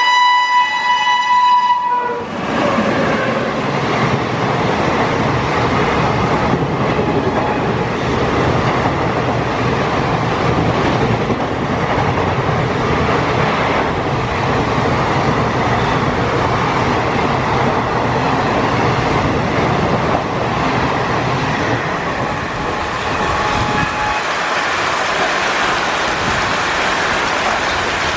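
An Indian Railways train sounds its horn, a held chord that cuts off about two seconds in, then passes close by with a steady rumble and clatter of wheels over rail joints. About four seconds before the end the low rumble falls away, leaving the hiss of heavy rain.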